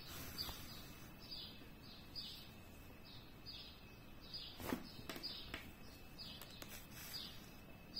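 Faint bird chirps, short and repeated about twice a second, with one soft tap a little past halfway.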